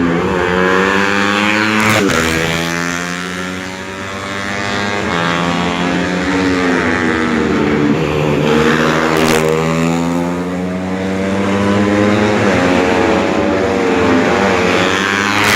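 Four-stroke 125 cc underbone race motorcycles at full throttle, engine pitch climbing through the revs and dropping at each gear change, over and over. A few sharp clicks cut in.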